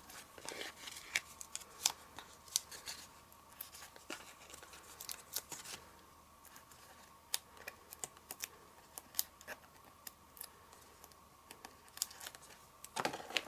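Quiet paper-craft handling: scattered small clicks, scratches and rustles as foam adhesive dimensionals are peeled off their backing sheet and pressed onto card.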